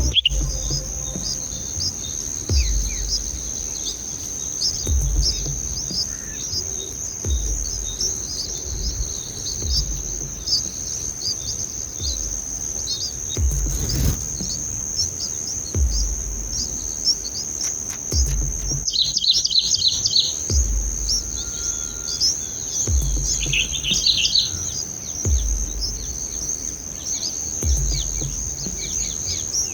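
Birds chirping over a steady high-pitched insect drone, with two short bursts of busier chirping in the second half. A low pulse repeats about every second and a half.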